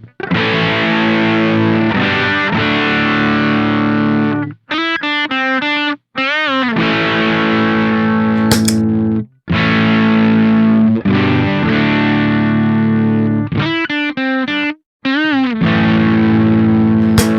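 Electric guitar played through a Velouria FX Witchcraft distortion/preamp pedal: heavily distorted chords are held for a few seconds each and cut off sharply. Between them come short runs of single notes with wide vibrato, twice.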